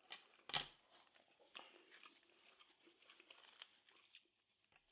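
Near silence, broken by one short soft rustle about half a second in and a few faint clicks.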